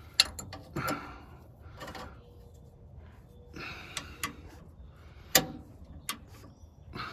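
Hand wrenches clicking and knocking against the lower shock bolt and nut of a truck's rear shock absorber as they are fitted and turned: a handful of sharp, irregular clicks spread over several seconds.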